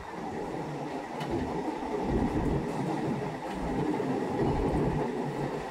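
Chennai MRTS electric suburban train running on its track: a steady rumble of wheels and carriage, with the level swelling and a few low thumps from the track.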